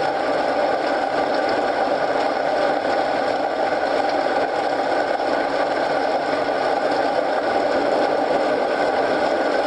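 Rain and fireplace ambience: a steady, even hiss, strongest in the lower-middle range, with no distinct pops standing out.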